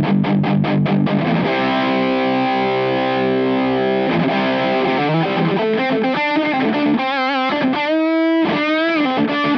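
Electric guitar played through the Olinthus Cicada, a TS808 Tube Screamer-style overdrive, stacked into another drive pedal: a quick run of strummed distorted chords, a long held chord, then single-note lead lines with bends and vibrato near the end.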